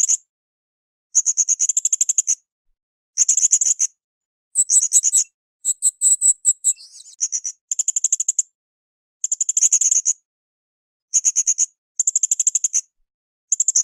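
Blue-crowned hanging parrot (srindit) calling in rapid, high-pitched twittering trills, bursts of about a second repeated every one to two seconds, with a slightly different phrase about five seconds in.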